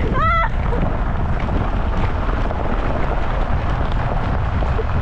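Off-road luge cart rolling downhill, a steady low rumble with wind buffeting the microphone. A short, high-pitched vocal cry sounds just after the start.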